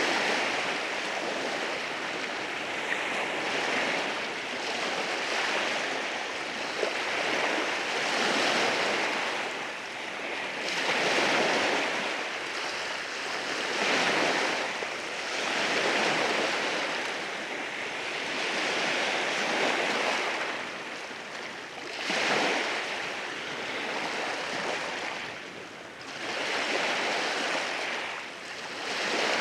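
Waves breaking and washing over a rocky shore, surging every few seconds and draining back between.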